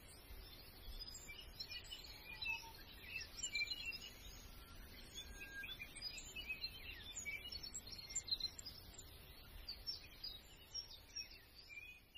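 Several songbirds chirping and singing at once, many short overlapping high calls and trills, over a faint low rumble.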